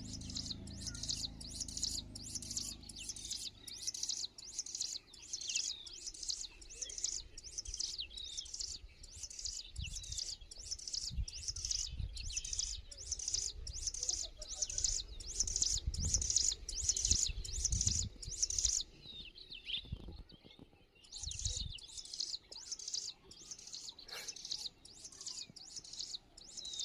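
A flock of small birds chirping and twittering, a dense run of quick high-pitched calls that thins out briefly about two-thirds of the way through. Dull low rumbles come and go underneath.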